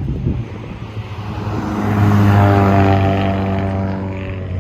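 A car's engine driving past with a steady droning note that swells about two seconds in and fades toward the end.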